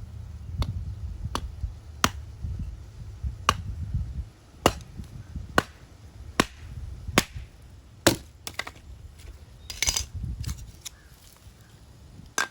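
Slow, steady chopping: a knife coming down onto a cutting board about once every three-quarters of a second, each stroke a sharp knock. A brief scrape follows near the end.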